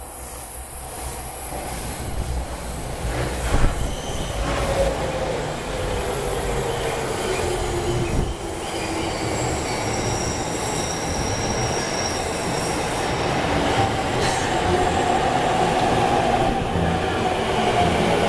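JR commuter train coming out of a tunnel and pulling into the station. The rumble of wheels on the rails grows steadily louder, and the wheels squeal in several pitches that slide slowly.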